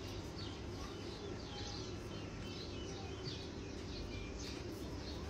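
Small birds chirping: short high chirps, about two or three a second, over a faint steady background hiss.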